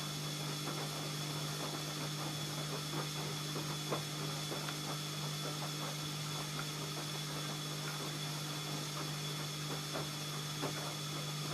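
ELIN A 100 E washing machine running, its motor giving a steady electric hum with a high whine over it and scattered light clicks and knocks.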